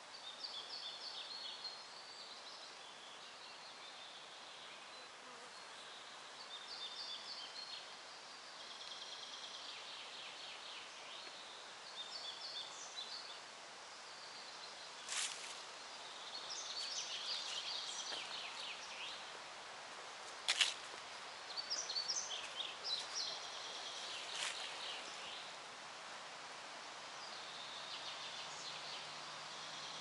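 Songbirds singing: short, chirping, trilled phrases repeated every few seconds over a steady hiss. Two sharp clicks come about halfway through, the second the loudest sound.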